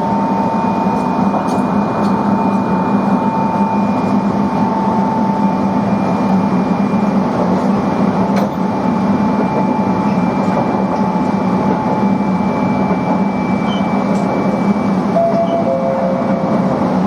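Tobu 20400 series electric train running at speed: steady rolling noise with a thin whine that slowly falls in pitch.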